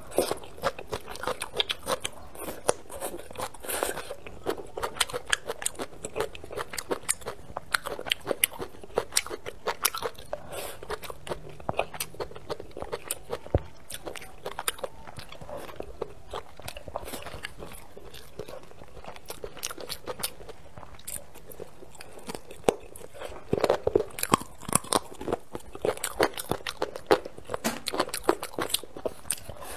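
A person chewing and biting with many sharp crunches while eating stir-fried cured pork with glutinous rice shoots and crisp green peppers.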